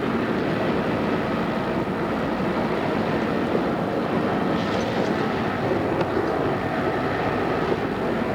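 Odakyu 2600 series electric train running at steady speed, a continuous rumble of wheels on rail with a faint motor hum, on an old cassette recording. A brief rise in high hiss comes about five seconds in.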